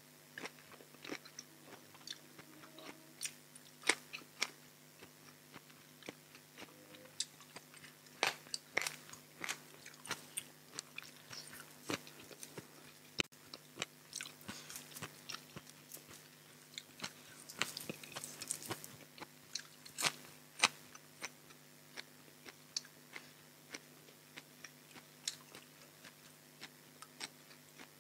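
Close-up eating sounds: chewing and biting into a raw shrimp salad and crisp fresh vegetables, with many short crunches and wet clicks spread unevenly throughout.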